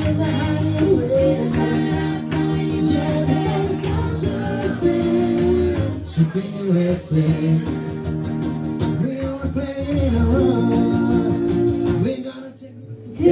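Live band music with guitar and singing voices in a country-rock style. Near the end it drops away abruptly for about a second.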